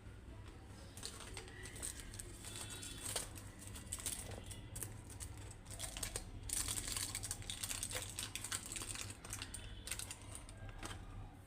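Aluminium foil crinkling and crackling as the wrapping is peeled open off steamed sausages, with quick irregular rustles and clicks that are busiest about two-thirds of the way through.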